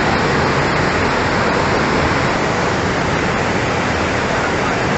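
Floodwater rushing past in a heavy, steady torrent, a loud, even wash of noise with no breaks.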